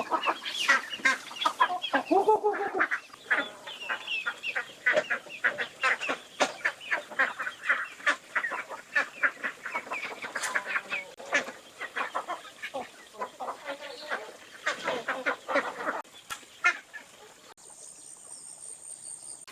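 A flock of farm poultry calling: many chickens clucking over each other, with honking calls from geese or ducks mixed in. The calls thin out near the end, when a thin steady high whine comes in.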